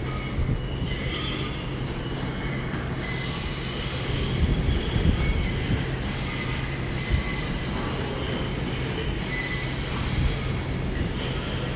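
Class 345 electric multiple unit coming slowly into the platform, its wheels squealing on the rails over a steady running noise.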